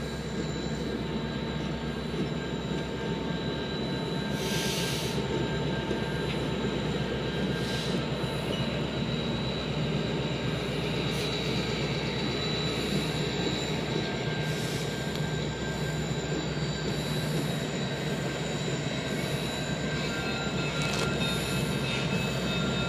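Freight train passing: diesel locomotives rumble steadily, then freight cars roll by, with wheels squealing in thin, steady high tones. A few brief hisses stand out in the first third.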